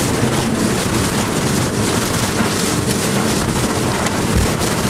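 Strong wind rushing loudly and steadily over the microphone.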